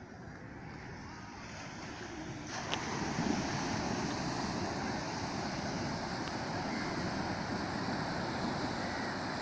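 Sea surf washing onto a beach, with wind buffeting the microphone; the rushing noise grows louder and brighter about two and a half seconds in.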